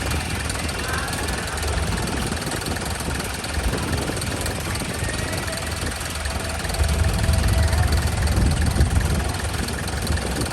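An engine running steadily at low revs with a low rumble, louder from about seven to nine seconds in.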